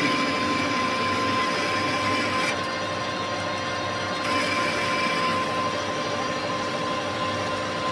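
Metal lathe running with a steady mechanical hum, during drilling of a steel part. The higher hiss drops away for a couple of seconds about two and a half seconds in, then returns.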